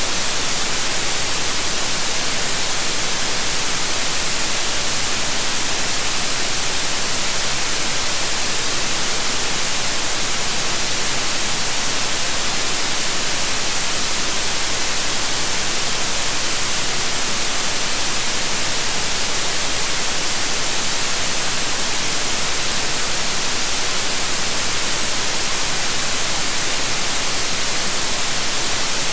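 Steady synthetic white noise, an even hiss weighted toward the high end, with no changes.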